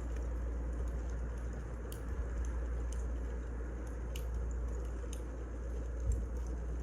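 Wood fire burning, with scattered sharp crackles and pops about once a second over a steady low rumble.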